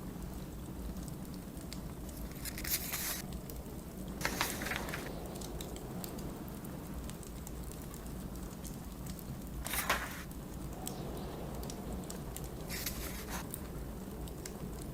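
Wood fire crackling with scattered small pops over a steady low rumble of blizzard wind, with paper book pages being turned, four short rustling swishes.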